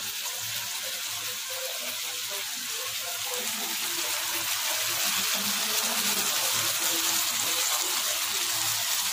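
Potatoes and masala frying in oil in a kadai over a gas flame: a steady sizzling hiss that grows a little louder about three seconds in.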